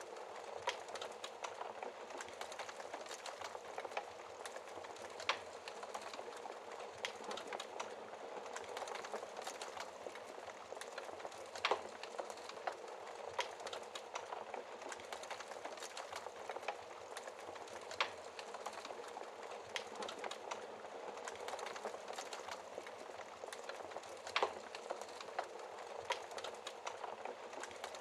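Wood fire crackling in a fireplace: a steady soft hiss full of small crackles, with a sharper pop about every six seconds.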